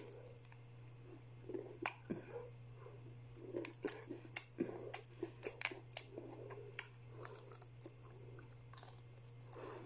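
Close-up chewing and biting of fried chicken: small crunches and wet mouth clicks, scattered irregularly. A steady low hum runs underneath.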